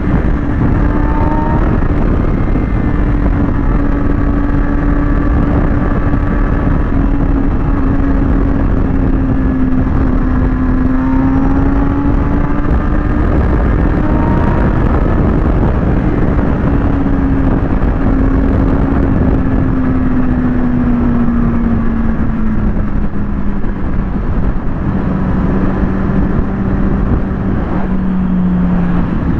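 Kawasaki ZX-6R inline-four engine running at steady road speed over a constant rush of noise. Its pitch holds fairly even for the first half, then eases down gradually through the second half as the revs drop.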